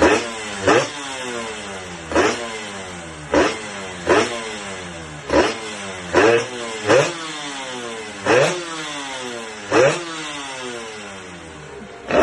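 Motorcycle engine revved in short, sharp throttle blips about eight times, roughly one every one and a half seconds. After each blip the revs sink slowly back toward idle.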